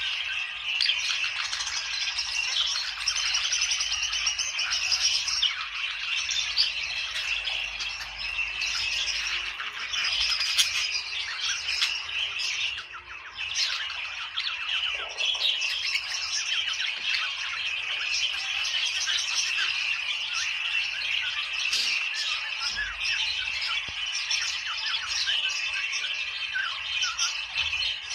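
A flock of budgerigars chattering and warbling without pause: many quick high chirps and squawks overlapping. There is a brief lull about thirteen seconds in.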